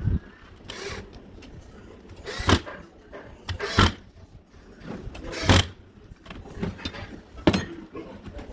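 A power drill cuts off right at the start. Then come four short, sharp knocks and rattles, one to two seconds apart, from handling the tool and its parts.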